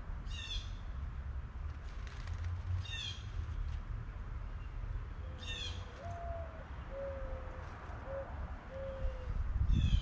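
Wild birds calling: one bird repeats a short, high call that falls in steps, about every two and a half seconds, and in the second half another gives a low, five-note call, over a steady low rumble.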